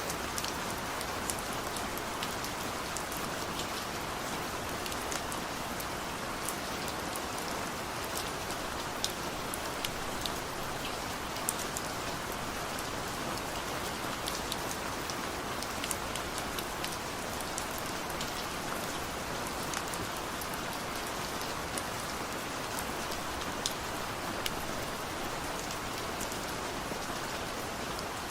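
Steady rain falling: an even, constant hiss with scattered sharp ticks of individual drops striking a surface.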